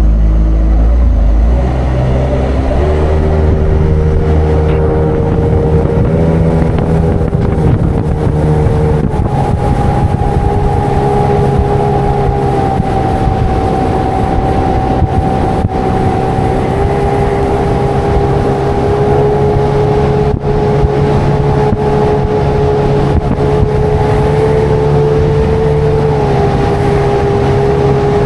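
Boat's outboard motor opening up and running at speed, a steady engine note that shifts pitch in small steps a few times as the throttle changes.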